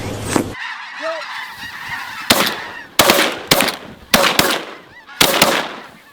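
A large flock of snow geese calling: a continuous din of high honking yelps, with several loud close calls in the second half.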